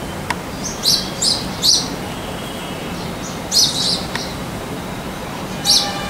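Small bird chirping: short, high chirps in little clusters of two or three, spaced a couple of seconds apart, over a steady background hiss.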